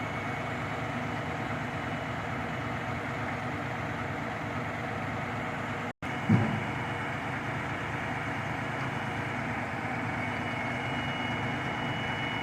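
Delivery truck's engine running steadily at idle, with a short knock about halfway through.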